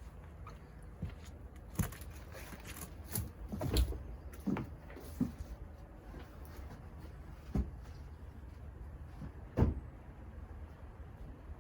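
A handful of separate knocks and clunks over a low steady rumble: one about two seconds in, a cluster around four to five seconds, then single ones near eight and ten seconds, the one near ten the loudest.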